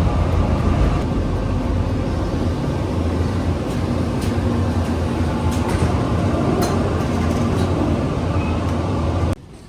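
Steady low rumble and hiss from inside a moving vehicle, cutting off suddenly near the end.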